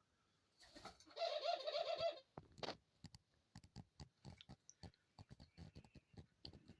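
A pet dove coos once, a wavering call about a second long, then a string of soft, irregular clicks follows.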